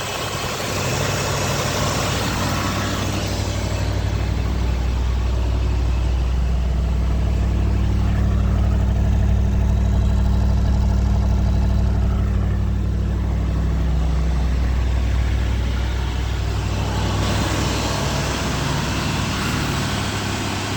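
Ford Thunderbird engine idling steadily with a low, even exhaust note, warming up after a cold start.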